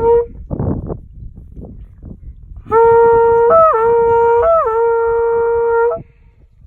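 Horagai, a Japanese conch shell trumpet, being blown. The end of one blast is followed by a breath, then a loud held blast of about three seconds that bends up in pitch twice and cuts off sharply.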